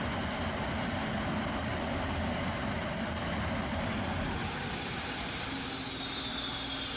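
Kawasaki Jetfoil 929's gas-turbine engines running, a steady rush with a high whine that sounds like an aeroplane. A little past halfway the whine starts falling steadily in pitch as the turbines ease off.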